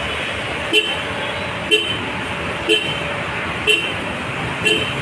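A short electronic beep sounding about once a second, five times, over a steady vehicle-like noise.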